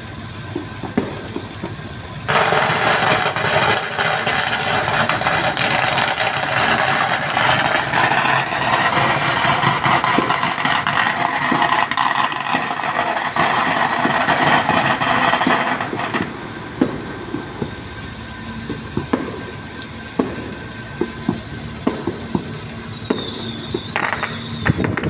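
A loud, even rushing hiss starts suddenly a couple of seconds in and cuts off abruptly about fourteen seconds later. Under it runs a steady machine hum with scattered knocks, and a brief high squeal comes near the end.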